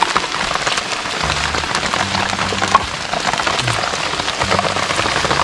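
Steady rain pattering on leaves and the ground, with many small drop ticks.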